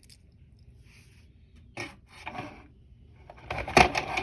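Small toy trains being handled: rubbing and scraping about halfway through, then a louder clatter near the end as a toy is set down or picked up.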